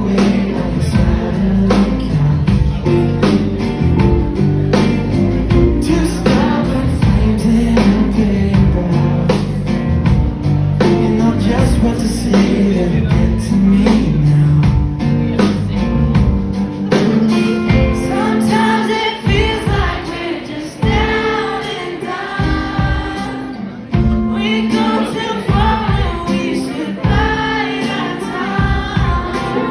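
Live band playing a song with singing. About halfway through, the bass and drums drop away and the voices carry on with lighter accompaniment.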